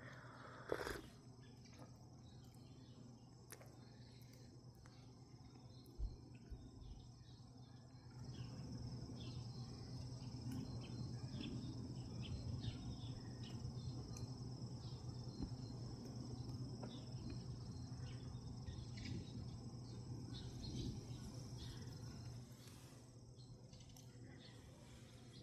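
Faint outdoor ambience of insects chirring steadily, with small scattered ticks and a low steady hum from about a third of the way in until near the end.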